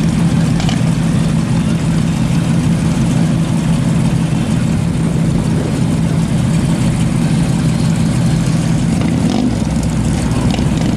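Classic Chevrolet Chevelle's engine idling steadily through its exhaust.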